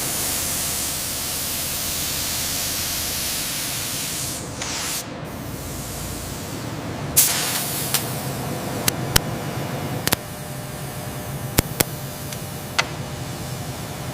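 Steady, loud hiss for about five seconds, then it cuts to a lower steady background noise with a series of sharp clicks or knocks, about eight in the last seven seconds.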